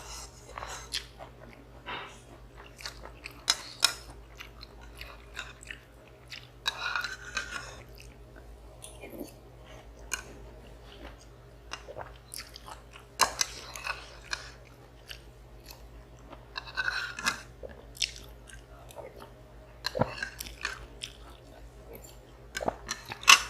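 Close-miked eating of instant noodles and rice: wet chewing with many sharp mouth clicks and small taps, and two longer slurps, about seven and seventeen seconds in.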